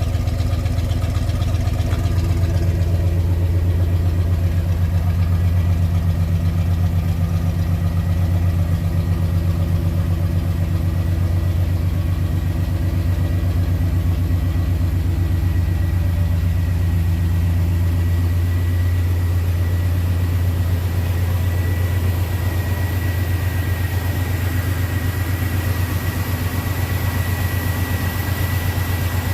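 A 1968 Oldsmobile 442's V8 engine idling steadily.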